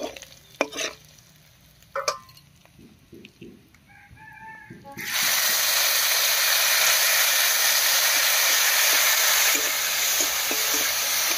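A metal spatula knocks and scrapes against an aluminium kadai a few times. About five seconds in, green chilli and garlic paste goes into hot mustard oil and sets off a loud, steady sizzle.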